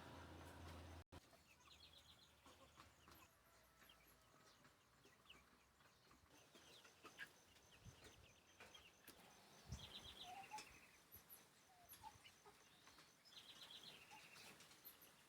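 Near silence with faint bird calls: a few short chirp series that step down in pitch, about two, ten and thirteen seconds in. A low rumble at the very start cuts off abruptly about a second in.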